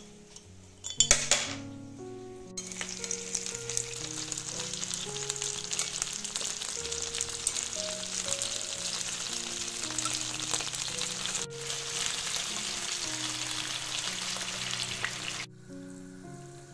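Chicken wings frying in hot oil in a pan: a dense crackling sizzle that sets in about two and a half seconds in and stops abruptly about a second before the end. Just before it, a beer bottle cap is opened with a sharp hiss about a second in.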